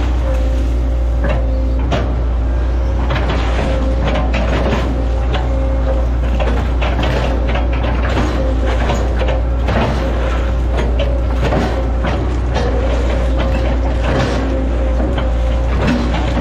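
Hitachi Zaxis 110 excavator working: its diesel engine runs steadily under a constant hydraulic whine, with irregular knocks and clatter throughout.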